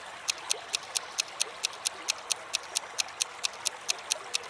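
Quiz countdown-timer ticking: quick, even, clock-like high ticks, about four to five a second, over a faint steady hiss.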